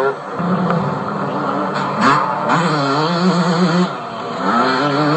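Motocross bikes racing, engines revving up and down as they go through the gears.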